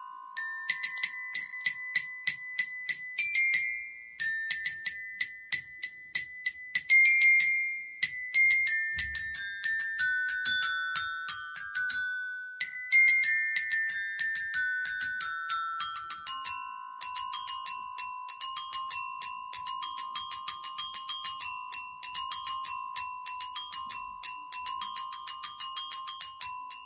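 Metallophone playing a Turkish folk melody, mallets striking the metal bars in runs of bright, ringing notes. From about two-thirds of the way through, the strikes come faster and denser around a repeated lower note.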